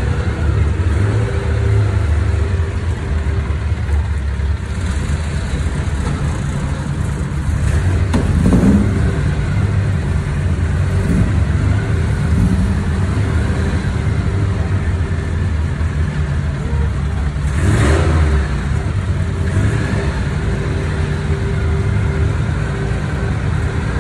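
Vintage open sports car's engine running at idle, revved up briefly twice.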